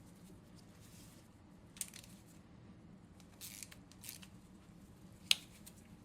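Faint scrapes and clicks of hand work on exhaust manifold bolts of a 7.3 IDI diesel, the bolts loose enough to turn out by hand, with one sharp metallic click about five seconds in.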